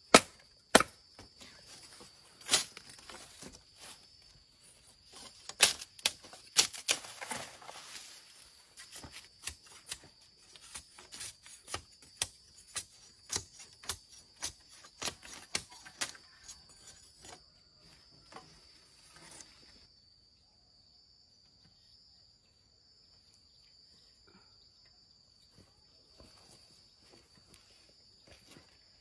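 Irregular sharp knocks and cracks from hand-tool work on wood or earth. They are loudest in the first few seconds, then grow softer and thinner until they stop about two-thirds of the way through. A steady high-pitched insect buzz runs underneath throughout.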